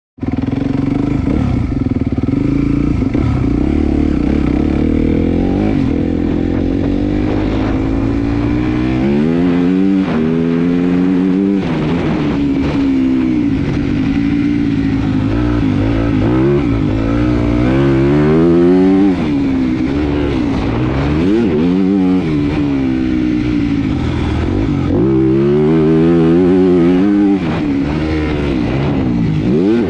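Motocross bike engine revving hard and shifting through its gears, its pitch climbing and dropping back again and again.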